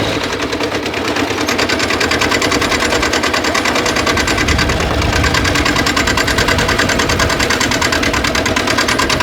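An engine running steadily with a fast, even pulsing of about a dozen beats a second.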